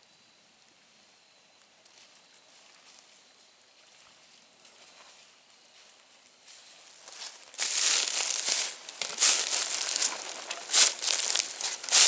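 Dry fallen leaves crunching and crackling close by, loud and irregular, starting about seven seconds in after a quiet stretch.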